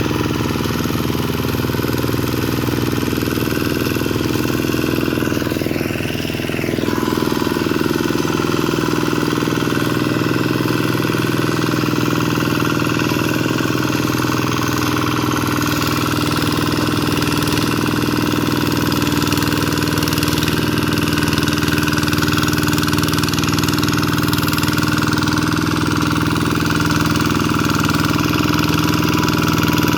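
Single-cylinder diesel engine of a Vikyno RV 125-2 hand tractor running steadily, with a brief dip and shift in pitch about six seconds in.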